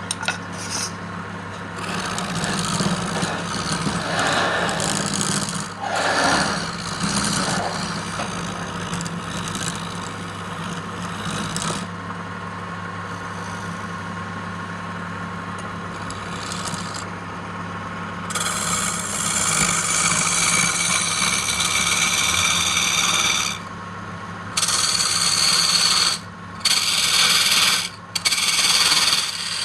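Wood lathe running with a steady motor hum while a tool is held against the spinning wood, making a continuous scraping, rasping noise. The tool comes off the wood briefly a few times near the end.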